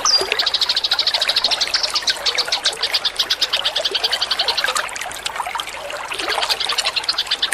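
A songbird's rapid-fire call, a fast rattling trill of high notes, well over ten a second, running almost without a break over a steady trickle of running water.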